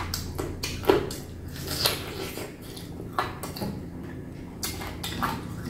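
Close-miked biting and chewing of pickled chicken feet: irregular wet crunches and mouth clicks, the sharpest about a second in and again near two seconds.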